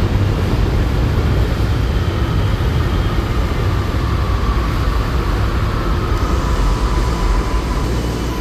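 Panama Metro train running: a steady rumble with a faint high whine that slowly falls in pitch.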